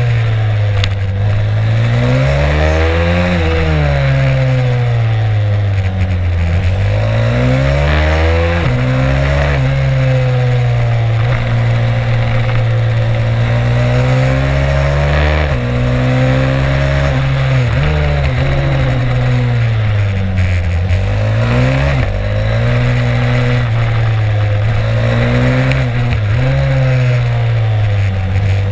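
Stomp 140 pit bike's 140cc four-stroke engine heard onboard on track, its revs climbing hard and falling off again every few seconds through the laps, with wind and road noise on the microphone.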